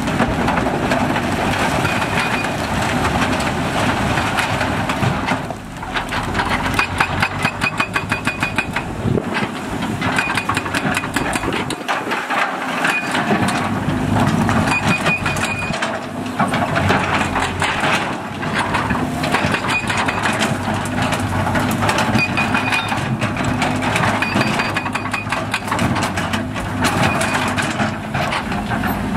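Heavy earthmoving machinery at work: a diesel engine running under load, with frequent knocks and clatter of rock and earth being dug or dumped and a high tone that comes and goes.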